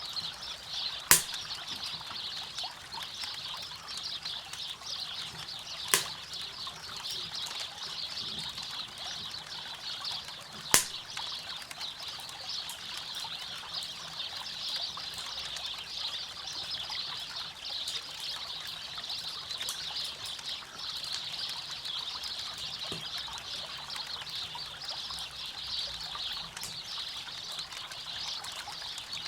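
Steady rush of flowing river water with a campfire crackling, and three sharp pops from the fire about five seconds apart in the first half.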